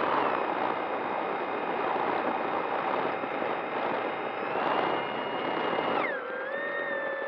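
Arrows Bigfoot RC plane's electric motor and propeller whining at a steady pitch over heavy wind noise on the microphone. About six seconds in, the pitch drops sharply as the throttle is pulled back.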